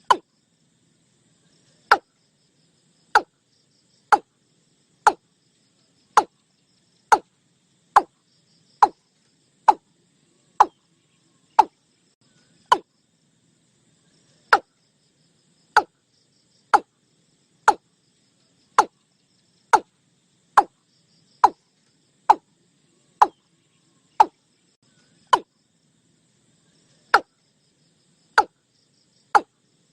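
Watercock calling: a long run of short, hollow notes, about one a second, each dropping in pitch.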